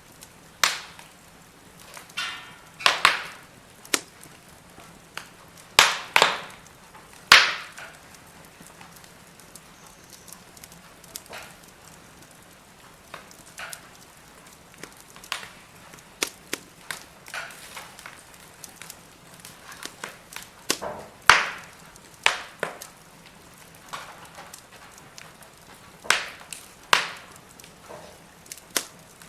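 Firewood burning in a fire pit, crackling with irregular sharp pops and snaps. A handful of loud cracks stand out among many fainter ticks, over a faint steady hiss.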